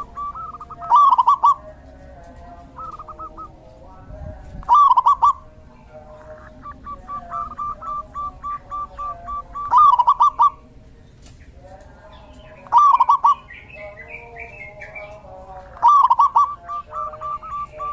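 Zebra doves (perkutut) cooing: a run of short staccato notes about four a second, broken every few seconds by a louder, quicker phrase.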